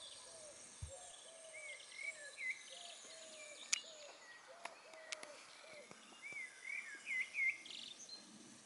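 Faint birdsong: a low call repeated about twice a second that stops about two-thirds of the way through, with two short runs of higher chirping notes, one early and one near the end. A few sharp clicks sound in the middle.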